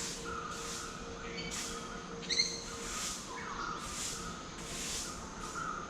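Birds chirping, with one short, bright chirp a little over two seconds in.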